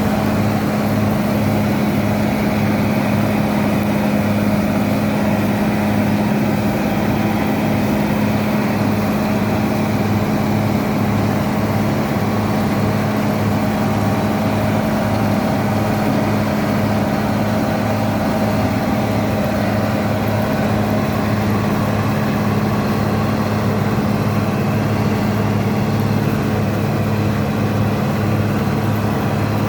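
Bizon Rekord Z058/1 combine harvester's 6CT107 six-cylinder diesel engine running at a constant speed, with an even, unbroken low hum that neither revs up nor drops.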